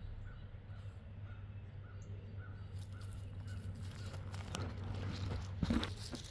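A dog digging in soft dirt: short, evenly repeated sounds about three a second at first, then scratching and scraping in the earth that builds up, loudest just before the end.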